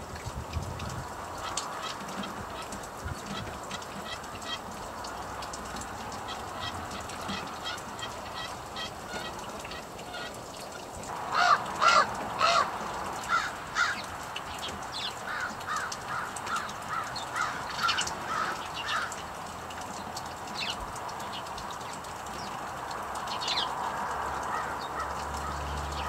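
Birds calling: a few loud, harsh calls about halfway through, then a run of about eight quick, evenly spaced notes, over steady background noise.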